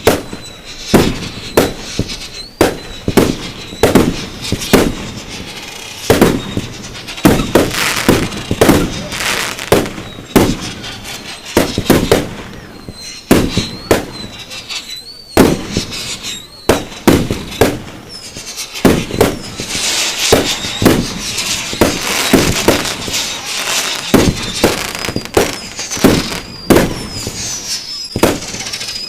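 Fireworks display: a fast run of loud aerial shell bursts, about one or two bangs a second, with high wavering whistles and a stretch of dense crackling from about twenty seconds in.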